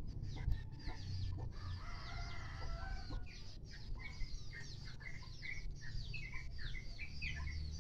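Flock of free-range village chickens clucking and calling, with many short high chirps repeating throughout and a rooster crowing.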